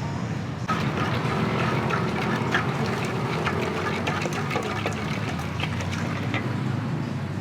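Busy street-food stall ambience: a steady low hum with many quick clinks and clatters of kitchen work, and voices in the background.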